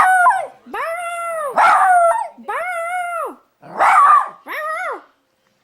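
A dog howling: about six short howls in quick succession, each rising and then falling in pitch.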